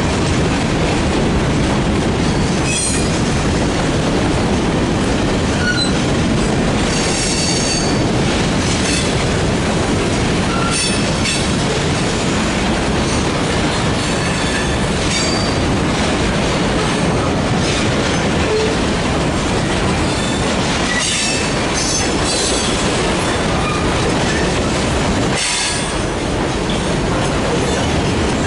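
Freight train rolling steadily past on its railcars, with short high-pitched wheel squeals coming and going several times.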